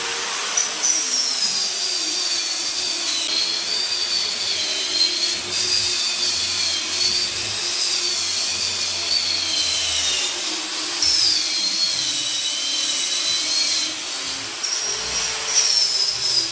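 Electric grinder running continuously on dried gypsum plaster, its high whine dipping and rising in pitch as it bears on and eases off the surface.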